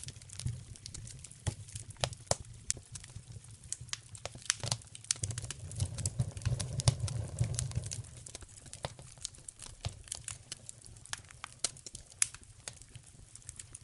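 Wood fire in a fireplace crackling, with irregular sharp pops and snaps over a low rumble of the flames that swells and fades.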